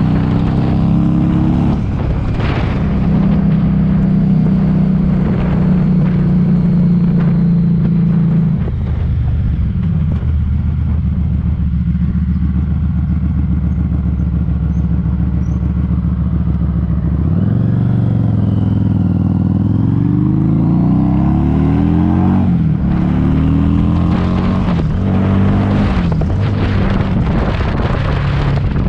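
Harley-Davidson Street 500 V-twin engine running under way, heard with heavy wind noise on the microphone. It holds a steady pitch, drops about a third of the way in, then rises in pitch several times near the end as the bike accelerates.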